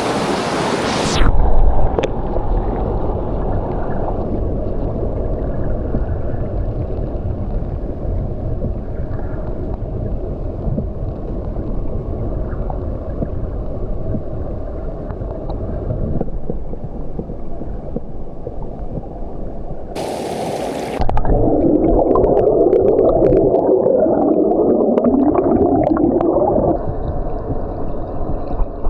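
Creek water heard with the camera held underwater: a muffled, low rushing and gurgling with the highs cut off. About twenty seconds in there is a brief hiss, then several seconds of louder bubbling gurgling.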